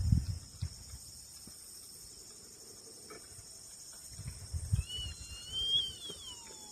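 Steady high-pitched chorus of insects such as crickets, with a wavering, gliding whistled call from about 5 seconds in. Low rumbles sound at the start and around 4 seconds in.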